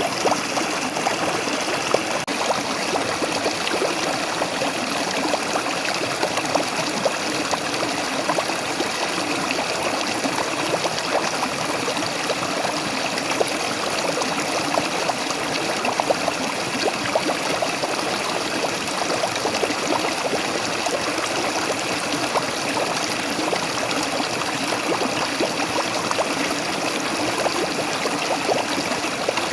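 Waterfall running steadily: a continuous rush of falling water with many small splashes and trickles throughout.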